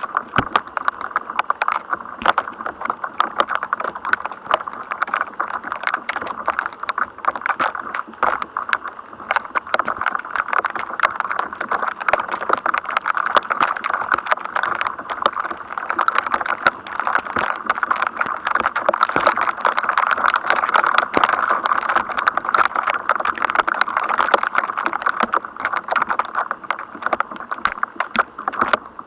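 Electrostatic noise from a thunderstorm: a dense, irregular crackle of sharp clicks over a steady hiss, continuing without a break.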